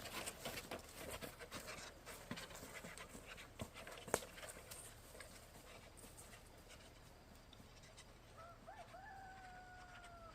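Faint scattered clicks and knocks, with one sharper click a few seconds in. Near the end comes an animal's thin whine: a short rising note, then a long one falling slowly for about two seconds.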